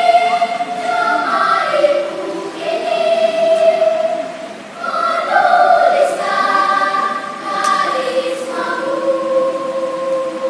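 Primary-school children's choir singing in sustained phrases, ending on a long held chord in the last couple of seconds.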